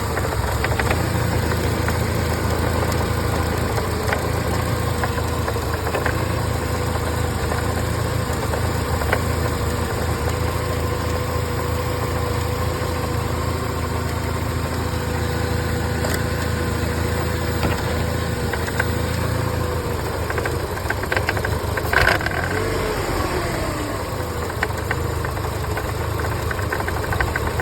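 Mercedes-Benz M111 four-cylinder petrol engine idling unevenly, with extraneous noises: scattered ticks and knocks over the idle and a steady whine that slides down in pitch after a sharp click a little past twenty seconds in.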